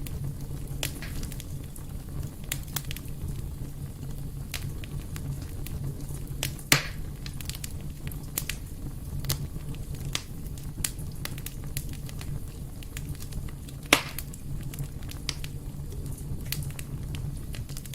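Wood fire burning in a fireplace: a steady low rumble of flames with frequent irregular crackles and two louder pops, one about 7 seconds in and one about 14 seconds in.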